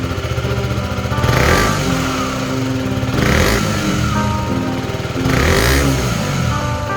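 KTM Duke 125 single-cylinder four-stroke engine idling and revved three times, each blip rising and falling back to idle, with background music underneath.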